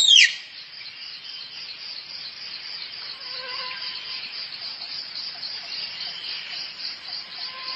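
A steady, softly pulsing high-pitched trill of insects, typical of crickets or cicadas. Right at the start, the end of a squirrel's sharp falling call cuts in.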